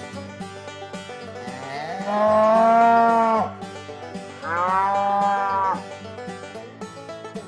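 Domestic cow mooing twice: a long moo of about a second and a half, then a slightly shorter one, over light background music.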